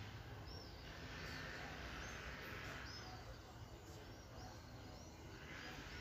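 Faint chirping of small birds, short high calls repeating every second or so over a steady low background rumble.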